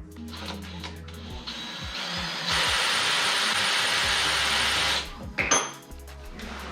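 A power tool running at full speed for about two and a half seconds, starting with a short build-up and cutting off suddenly.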